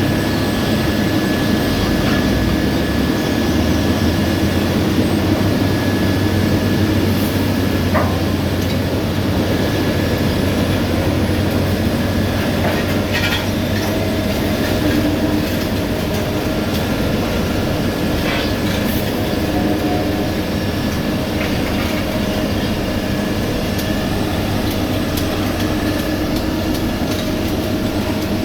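Heavy road-paving machinery running steadily: a diesel engine's hum with a thin steady whine above it and scattered light clanks.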